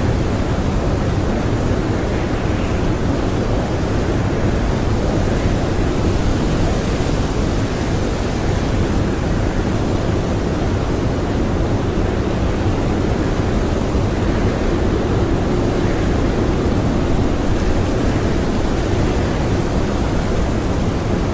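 Blizzard wind blowing hard and steadily: a dense, unbroken rushing noise, with a few faint gusts swelling over it now and then.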